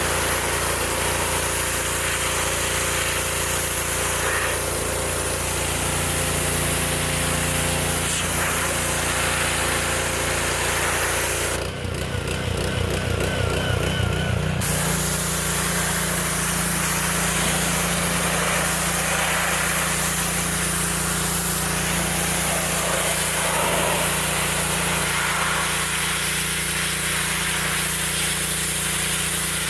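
Gas-engine pressure washer running steadily, its wand hissing as it sprays water. The spray cuts out for about three seconds about twelve seconds in while the engine keeps running, then resumes.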